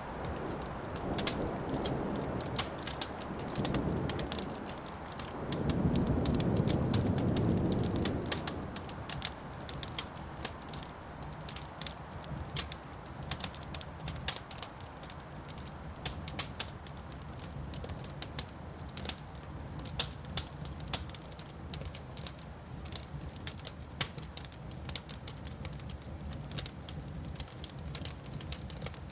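Wood fire crackling with a dense run of sharp pops and snaps. Under it, a low thunder rumble swells over the first several seconds and dies away about a third of the way in.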